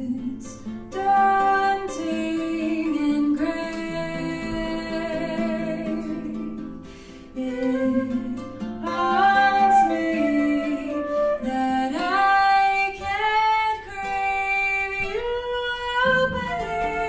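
A singer performing a slow song with vibrato on held notes, over live instrumental accompaniment with a plucked string sound, pausing briefly about seven seconds in.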